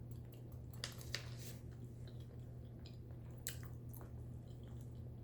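Someone chewing a mouthful of turkey pot pie close to the microphone: faint, scattered mouth clicks over a low steady hum.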